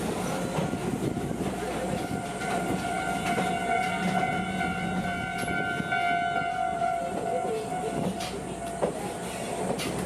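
Kominato Railway Satoyama Torokko train running along the track, with a steady high ringing tone held for most of the stretch and dying away near the end, over the rumble and clicks of the wheels.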